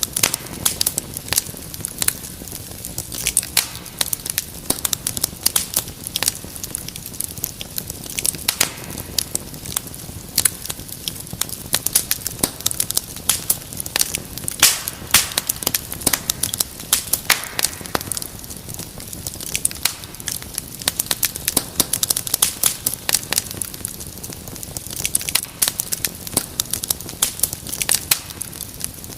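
Wood fire crackling in a fireplace: dense, irregular pops and snaps over a steady low hiss.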